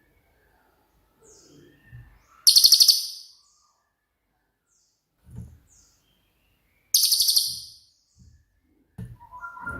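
Cililin bird singing: two loud, very high, rapid rattling bursts about four seconds apart, the fast 'tembakan' phrases it is kept for. Soft low knocks fall between them, and a lower whistled call comes near the end.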